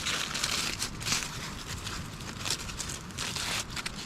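Several layers of aluminium tin foil crinkling and tearing as they are pulled open, in a run of short, irregular rustling bursts.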